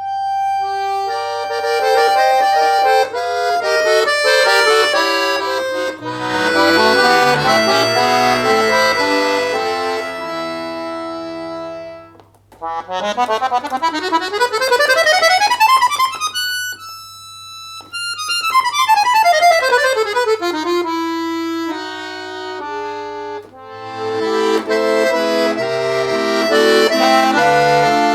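Solo accordion playing an arrangement of a Russian folk song. It moves from chordal passages into a fast rising run and then a fast falling run about halfway through, with a few high held notes in between, and returns to chords near the end.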